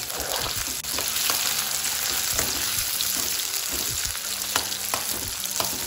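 Chopped tomatoes and red onions sizzling in hot oil in a metal kadai, stirred with a metal spatula that scrapes and knocks against the pan now and then. This is the frying of the base for a light chilli gravy.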